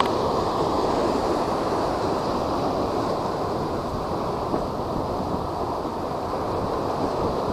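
Steady rush of typhoon wind and high surf, with wind buffeting the microphone.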